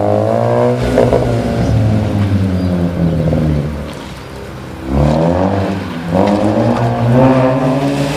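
Mazda RX-8's rotary engine revving hard and easing off in turn as the car is thrown around the cones. The revs drop away for about a second around four seconds in, then climb again.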